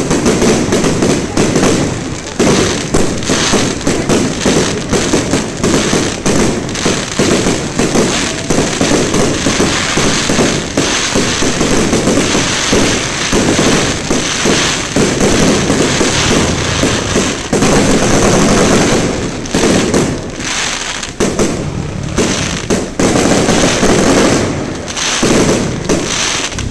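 Aerial fireworks display going off in a dense, continuous barrage of bangs and crackling, with a few short lulls in the second half.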